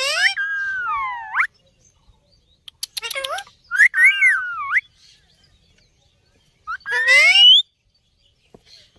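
Parrot calling three times, loud whistled calls that glide up and down in pitch, with a few sharp clicks just before the second call.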